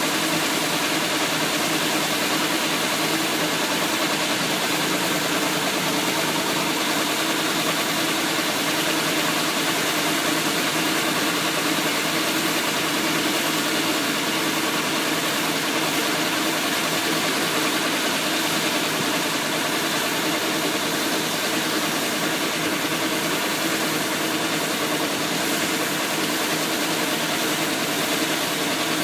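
Engine of a Thai E-taen farm truck, a single-cylinder diesel, running steadily with no change in speed.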